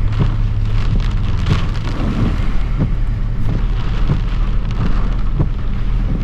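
Rain hitting a pickup truck's roof and windshield, heard from inside the cab, with many sharp drop ticks over a steady low hum of the engine and tyres on a wet road.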